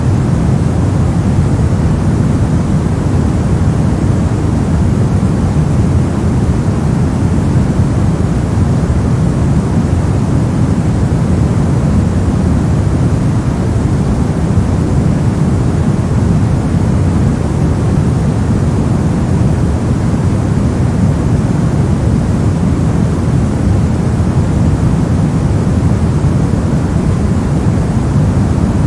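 Continuous synthetic white noise, perfectly steady with no changes, its energy weighted toward the low end so it comes across as a deep, rumbling hiss.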